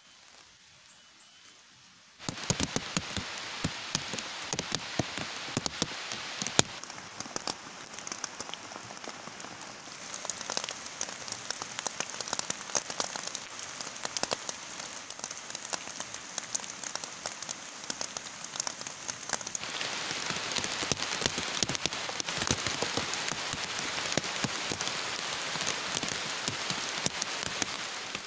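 Heavy rain falling, a dense steady hiss with many individual drops striking close by. It starts abruptly about two seconds in and grows heavier near twenty seconds in.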